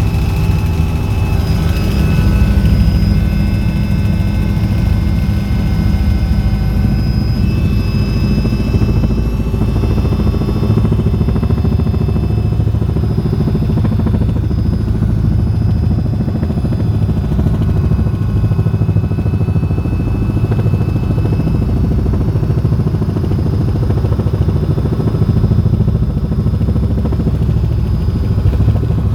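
Helicopter in flight: steady rotor and engine noise with thin, high turbine whine tones running over it.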